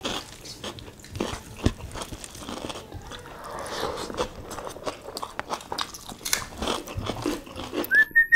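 Close-miked eating sounds of people eating rice and curry with their hands: chewing with many short wet clicks and crunches. Near the end a short whistle-like tone rises and then falls.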